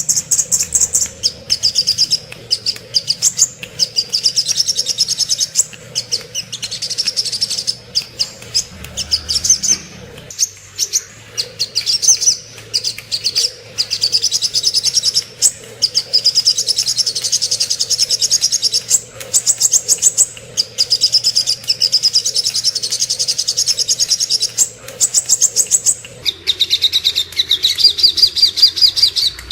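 Sogok ontong, a small sunbird, singing a long, rapid, high-pitched twittering trill with only brief breaks. About three-quarters of the way through the song switches to a steadier, slightly lower trill.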